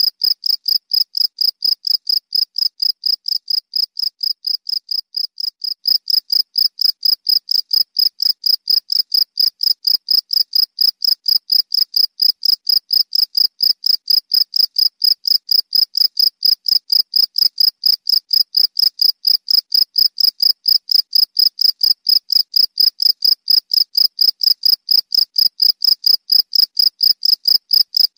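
Cricket chirping loud and close: a rapid, evenly spaced train of high, single-pitched pulses that never stops, dipping slightly in loudness a few seconds in.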